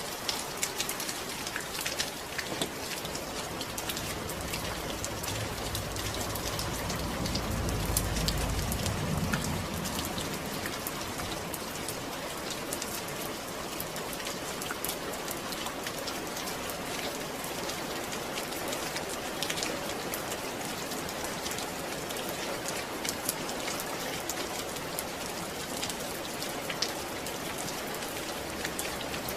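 Steady rain with many close drop ticks. A low rumble swells and fades about six to ten seconds in.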